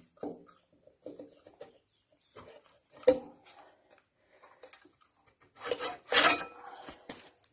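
Metal tools and engine parts clinking and scraping as a Lister SR3 diesel is dismantled, with a sharp metallic knock about three seconds in and a louder burst of ringing metal clatter around six seconds.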